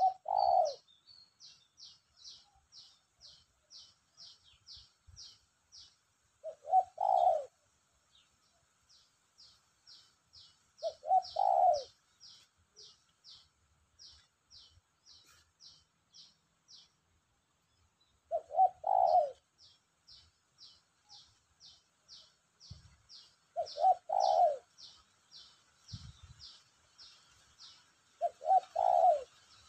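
Spotted dove (tekukur) cooing: six separate phrases of about a second each, spaced roughly five to seven seconds apart, from a newly caught bird already calling freely. Between the coos a faint, fast series of short high chirps runs at about two to three a second.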